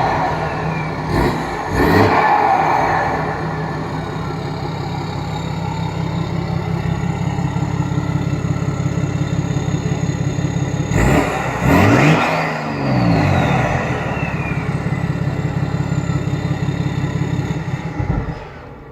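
BMW X6 M50d's tri-turbo inline-six diesel, its downpipe and mufflers deleted, idling and revved in quick blips: twice a couple of seconds in and twice again around the middle. A whistle falls in pitch after each pair of blips, and the engine idles steadily in between.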